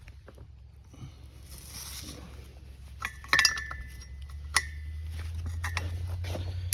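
Wrench clinking against the snowmobile's exhaust Y-pipe bolts: a few sharp metallic clinks, one about three seconds in ringing briefly, over a steady low hum that grows louder toward the end.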